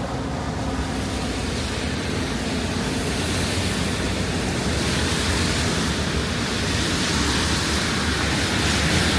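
Traffic hissing on rain-wet roads, a steady wash of noise growing gradually louder, with a low engine hum rising near the end.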